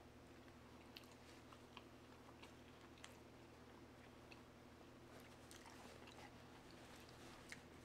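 Faint close-mouthed chewing of pizza, with soft, scattered mouth clicks over a low, steady hum.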